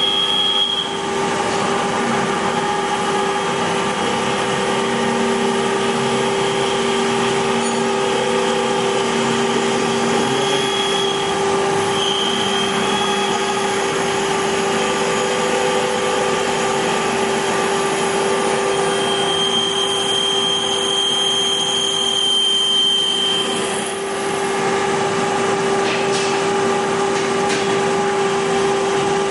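Hager HD300A-CNC computer-controlled wood lathe running and turning wood: a steady motor hum with the hiss of the cutter on the spinning workpiece, and a few brief high-pitched whines, the longest a few seconds long past the middle.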